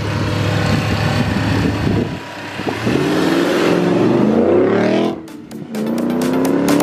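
BMW drift car accelerating hard away, its engine revving up steeply, dropping briefly on a gear change about five seconds in, then revving up again.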